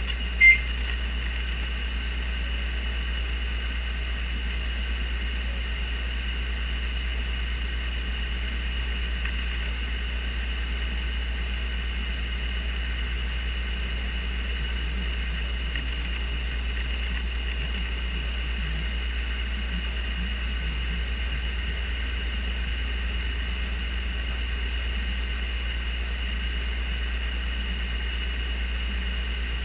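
A steady, unchanging drone with a low hum and a fainter high whine over it, and a single short high chirp about half a second in.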